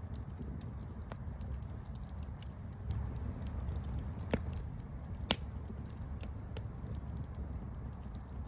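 Campfire crackling: a steady low rumble of burning with scattered sharp snaps, and two louder pops a second apart near the middle.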